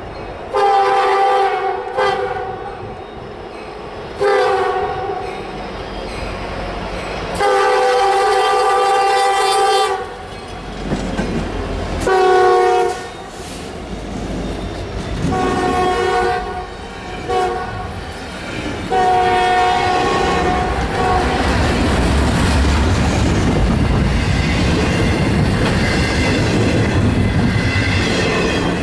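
Locomotive air horn sounding a chord of several notes in a string of long and short blasts as the train approaches. After the last blast, about two-thirds of the way in, the train passes with steady rumble and wheel clatter.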